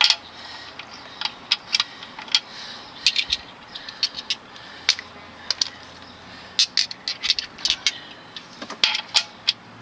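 Metal hand tools, wrenches and sockets, clinking and clicking against each other and the car while the right size for a bolt is sought: a run of sharp, irregular metallic clicks.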